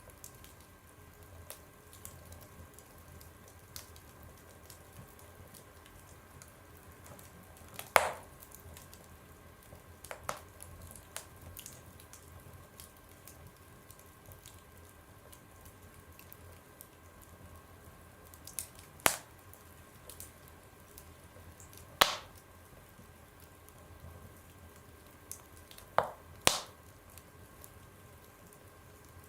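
Fire burning in a fireplace, crackling with a few sharp pops spaced several seconds apart over a faint steady hiss. The loudest pop comes about eight seconds in, and a quick double pop comes near the end.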